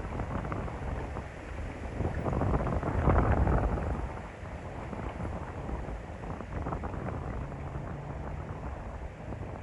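Wind buffeting the microphone as a low, rough rumble that gusts louder about two to four seconds in, then settles.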